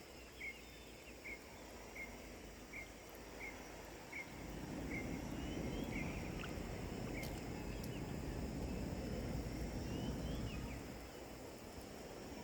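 A bird repeats a short, high chirp about once every 0.7 s over a steady high insect drone. From about four seconds in, a louder rustling, handling noise joins in and lasts for several seconds.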